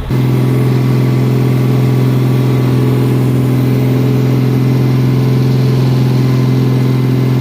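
A loud, steady hum of one fixed pitch from the dump truck, cutting in abruptly and holding without change.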